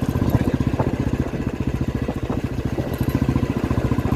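Royal Enfield motorcycle engine running steadily while ridden at a low, even pace, its exhaust giving a fast, regular pulse.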